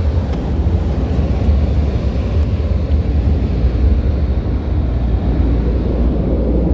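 Steady low rumble of a car on the move, heard from inside the cabin, with a few faint clicks in the first second or so.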